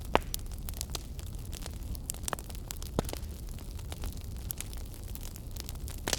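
Fire burning in a fireplace: irregular sharp crackles and pops over a steady low rumble, with one louder pop just after the start.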